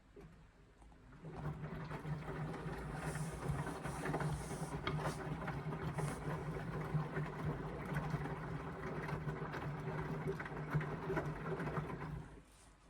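Indesit washing machine drum turning during the wash phase of an Express cycle: the motor starts about a second in, hums steadily with the load and water sloshing and clicking in the drum, then stops near the end as the drum pauses between turns.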